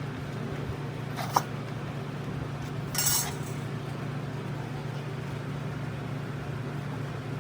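Small metal objects clinking: one sharp clink with a short ring about a second in, and a brief rattle about three seconds in, over a steady low hum.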